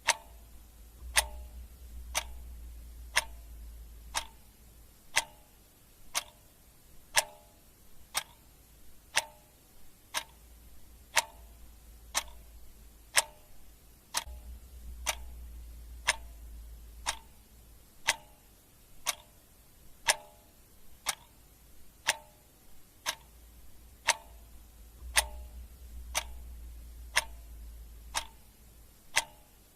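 Clock ticking steadily, one sharp tick a second, each tick with a brief ring. A faint low hum swells and fades under it three times.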